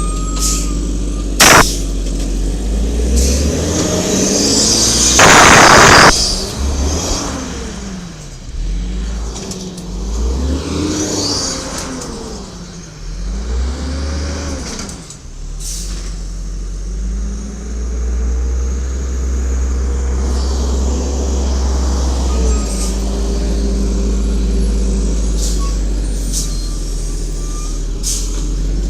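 Garbage truck's Cummins L10G natural-gas engine running, with a sharp click and then a loud air-brake hiss about five seconds in. The engine then rises and falls in speed several times before settling to a steady run.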